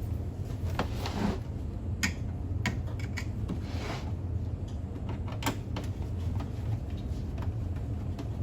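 Scattered clicks, knocks and brief scrapes of parts being handled while a coffee machine is taken apart, over a steady low hum.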